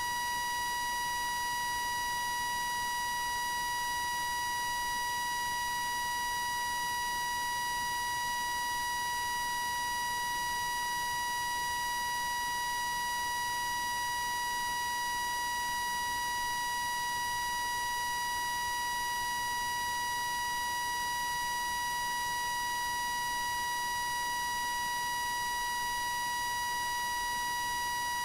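A continuous high-pitched electronic beep tone, one steady pitch held without a break at an even level.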